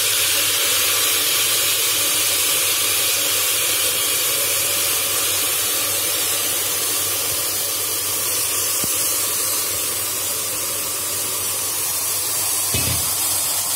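Steady sizzling hiss from onion and peas frying in ghee in an aluminium pressure cooker as drained, soaked rice is tipped in, with a light knock near the end.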